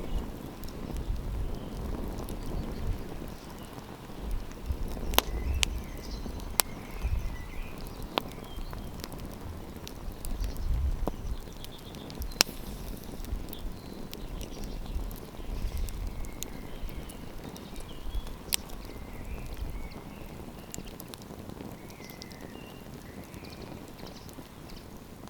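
Wood campfire crackling, with irregular sharp pops, a handful of them louder than the rest. A low rumble underneath dies away about three quarters of the way through.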